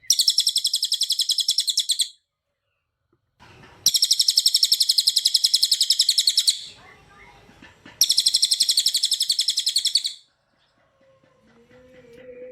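Cililin bird singing in three bursts of rapid, tightly packed high trilling notes, each two to three seconds long with short pauses between. Near the end there are faint lower sounds.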